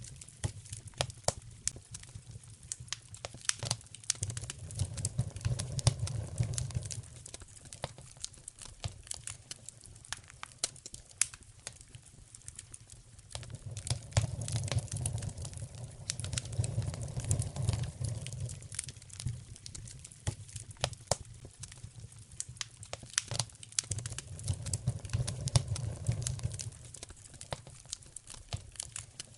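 Wood fire in a fireplace crackling, with dense irregular pops and snaps. A low rumble of the flames swells and fades three times.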